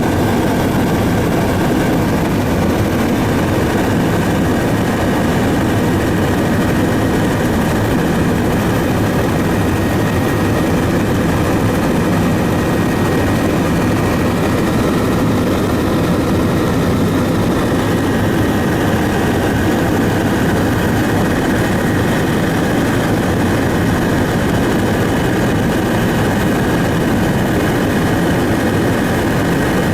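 Aircraft engine running at a steady cruise, heard on board during the flight: an even, unbroken drone with a few steady tones in it.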